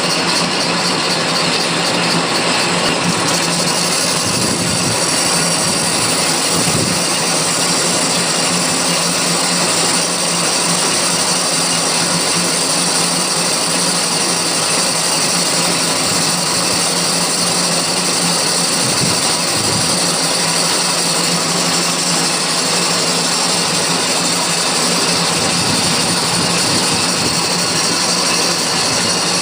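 Metal lathe running steadily while turning the outer diameter of a 3-jaw chuck body, truing up an edge that had flared from hammering. A steady motor hum sits under an even hiss of cutting.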